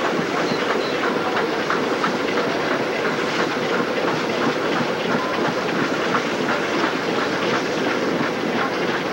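Steam-hauled passenger train running at speed, heard from a coach a few cars behind Nickel Plate Road 2-8-4 No. 765: a steady rush of running noise with the clickety-clack of wheels over the rail joints.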